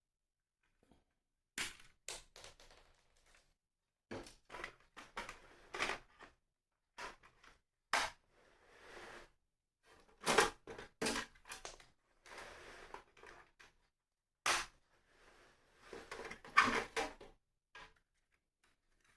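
Small plastic model parts being handled and fitted together: irregular sharp clicks and taps with short rustling and scraping between them.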